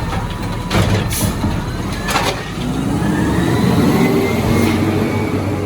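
Recycling truck working, with a few short sharp clanks or hisses in the first two seconds, then the engine running with a slowly rising whine.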